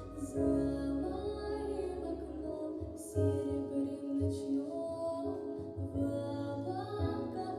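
A young girl singing a slow, gentle song with held notes over an instrumental backing track.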